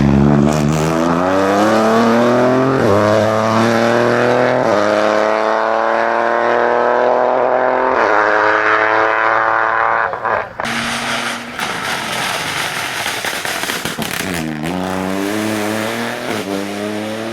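Rally car engine at full throttle, pitch climbing through the gears with several quick upshifts. About ten seconds in it lifts off, then drops again and picks back up with short upshifts near the end.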